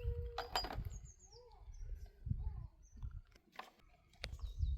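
Small birds chirping in short, falling notes, with a few sharp knocks and clinks.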